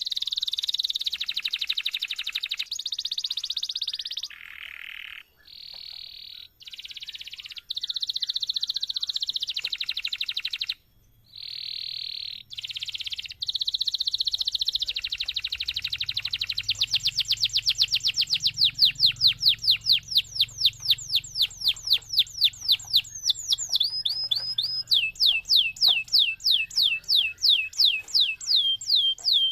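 Domestic canary singing a long song: rapid buzzing rolls broken by short pauses, then from about halfway a run of quick, sharply falling whistled notes that slows into a slower falling trill near the end.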